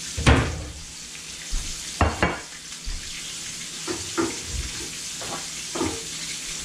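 Breaded bluefish chunks frying in hot oil in a skillet, a steady sizzle. Several sharp knocks and clatters from kitchen handling come through it, the loudest just after the start.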